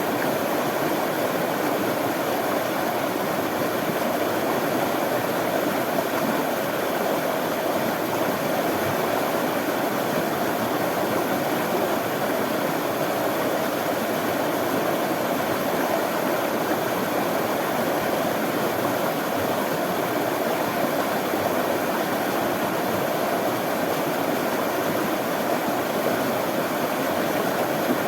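Running water: a steady, unbroken rush that stays even throughout.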